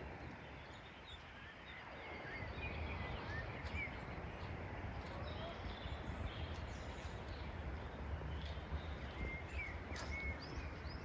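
Outdoor country ambience: a steady, even hiss with a low rumble underneath and scattered short bird chirps.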